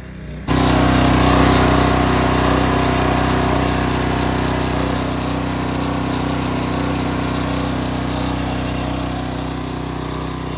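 Hot water pressure washer running, its small engine under steady load and the high-pressure spray hissing; the sound cuts in suddenly about half a second in.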